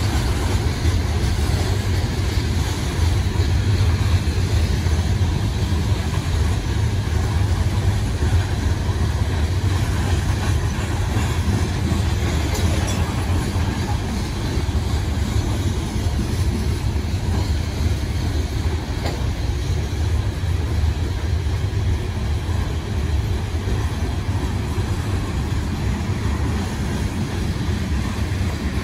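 Loaded coal hopper cars of a freight train rolling past, a steady rumble of steel wheels on the rails.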